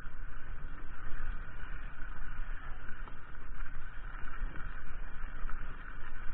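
Mountain bike riding over a trail: a steady, uneven rumble of tyres and frame with no pauses.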